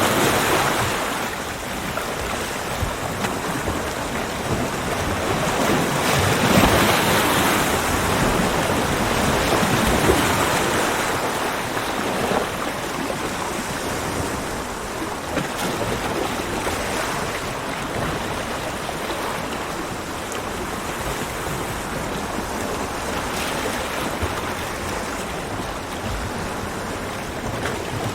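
Ocean waves breaking and washing up a beach: a continuous surf wash that swells with each breaker, loudest from about six to eleven seconds in.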